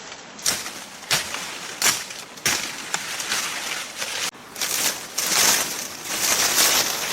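Repeated sharp knocks about two-thirds of a second apart, then a rustling, scraping noise after a sudden cut about four seconds in.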